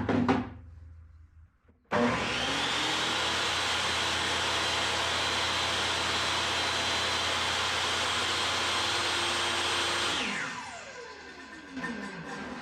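Table saw switched on: the motor spins up quickly to a steady whine and runs for about eight seconds while a groove is cut in the second side piece, then is switched off and spins down with a falling pitch.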